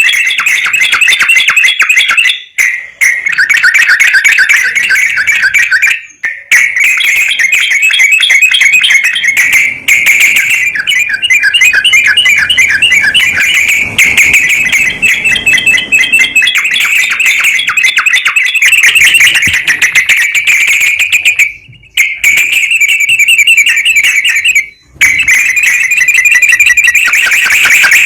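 Recorded songbird chatter: fast, loud runs of repeated high notes, broken by short pauses a few times. It is a lure track meant to stimulate a yellow-vented bulbul into singing.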